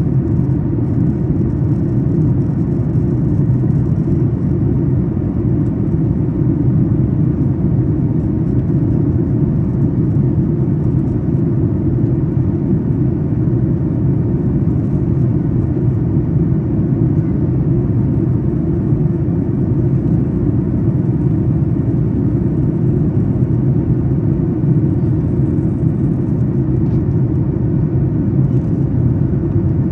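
Steady, loud cabin noise in the economy section of a Boeing 737 MAX 8 climbing after takeoff: the deep, even rumble of the CFM LEAP-1B turbofans and airflow over the fuselage, with a faint steady hum on top.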